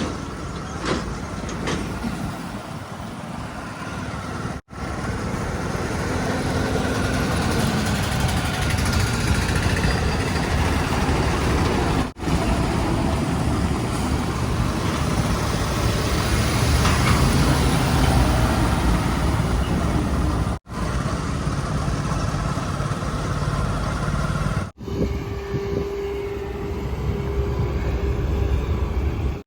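Diesel engines of heavy machinery and trucks running, in several short clips joined by abrupt cuts.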